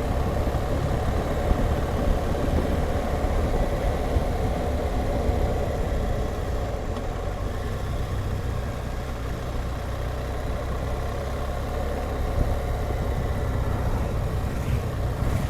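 BMW R1200GS Adventure's flat-twin engine running steadily.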